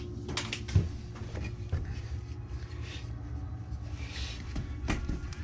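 Molding sand being rammed into a casting flask over 3D-printed pattern plates: a few dull, irregular thumps, the sharpest about a second in, over a steady low hum.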